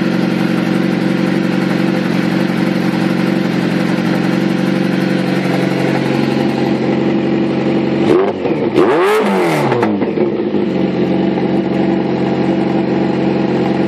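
Kawasaki ZX-14's inline-four engine breathing through a Muzzy M10 full exhaust system, idling steadily, then blipped once about eight seconds in, the pitch rising and falling back over about two seconds before it settles to idle again.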